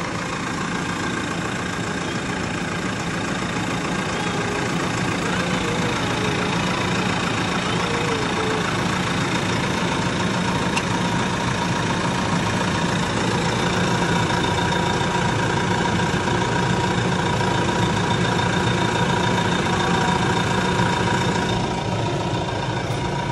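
Big farm tractor's engine idling steadily, slightly louder in the middle and easing a little near the end.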